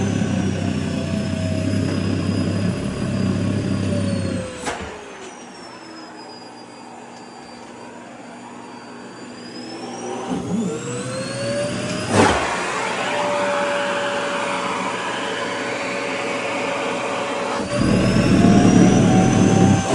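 Vacuum cleaner sucking at a dress's fabric, with a heavy low rumble. About four seconds in it clicks off and its motor whine winds down. About ten seconds in it spins back up, with a click, and runs steadily, and the low rumble returns near the end.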